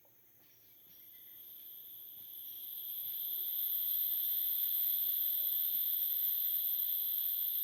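Steady, high-pitched insect chorus, fading in over the first few seconds and then holding level.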